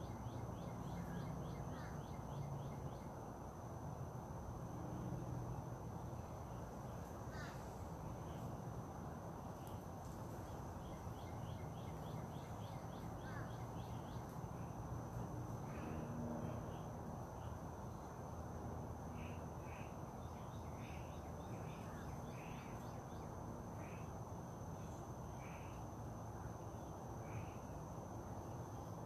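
Outdoor birds calling over steady background noise: a fast chattering trill in the first few seconds, then a series of short calls repeated about once a second in the second half. A thin, steady high-pitched tone and a low rumble run underneath.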